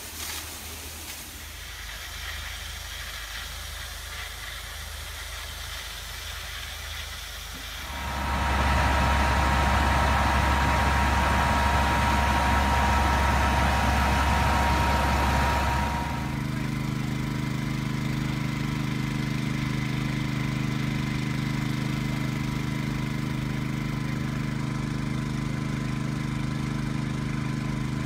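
Heavy engines and machinery running steadily at an emergency scene. About eight seconds in, a louder rushing hiss with a steady whine starts, and it stops suddenly about eight seconds later. Then a steady low engine drone with a hum runs on.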